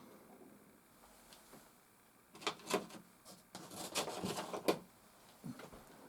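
Light knocks and clatter of hard objects being handled: a couple of single knocks, then a short run of clattering about three and a half seconds in, typical of soft pastel sticks and their box being picked up and set down.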